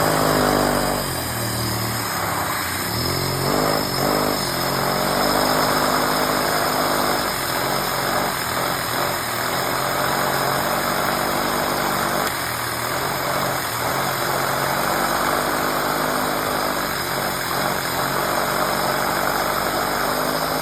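A motor-driven Lego model of a three-cylinder engine with a blower, running: a steady mechanical whir with plastic clatter. Its pitch shifts up and down several times as the speed changes.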